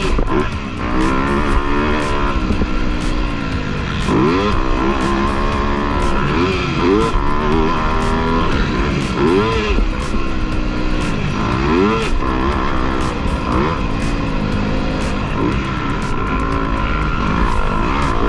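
Motocross dirt bike engines revving up and down over and over, as on throttle through a track, with background music that has a steady beat.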